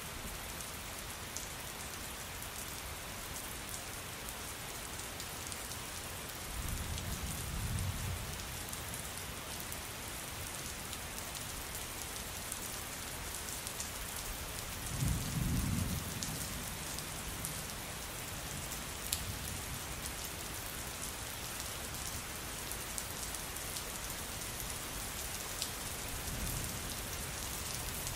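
Steady rain pattering on a surface, with distant thunder rumbling low three times, loudest about halfway through.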